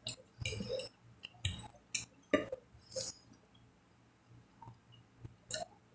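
Close-miked chewing of a mouthful of sausage stroganoff: a handful of short wet mouth smacks and clicks spread through the few seconds, with quiet gaps between.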